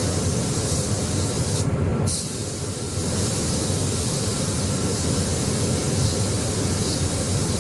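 Paint spray gun hissing steadily as it sprays car paint, the hiss breaking off briefly about two seconds in when the trigger is let go, then resuming.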